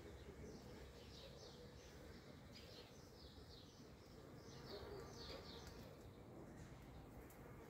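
Faint birdsong: a small bird repeating short phrases of quick chirps that fall in pitch, one phrase every second or two.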